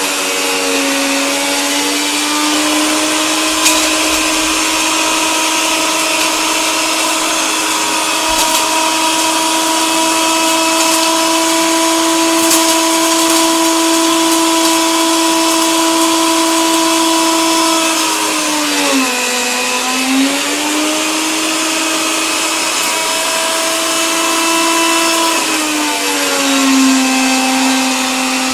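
Electric coffee grinder running continuously, a steady motor whine over the rattle and hiss of grinding. The pitch sags briefly about two-thirds of the way through, then settles a little lower near the end.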